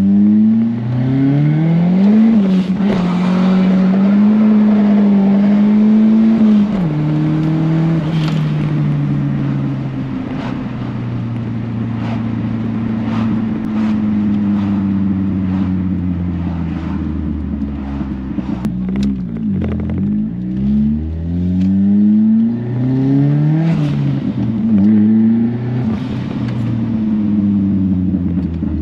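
Turbocharged 1.6-litre four-cylinder engine of a B13 Nissan Sentra, heard from inside the cabin, pulling under acceleration. Its pitch climbs and then drops at a gear change about seven seconds in, holds steady, and rises and falls several times near the end as the freshly rebuilt transmission is run through the gears.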